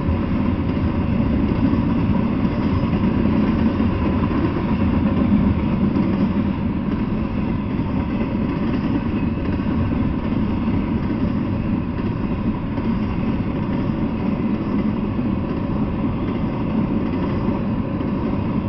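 Double-stack intermodal freight train rolling past: a steady low rumble of steel wheels on rail.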